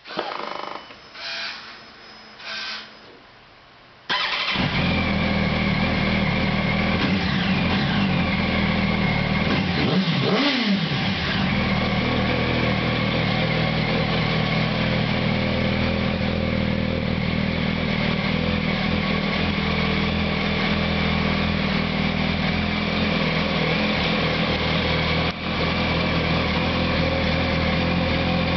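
2008 Yamaha YZF-R1 inline-four motorcycle engine on its standard exhaust: a few short bursts, then it starts about four seconds in and settles into a steady idle. Around ten seconds in, one brief blip of the throttle raises the pitch and lets it fall back.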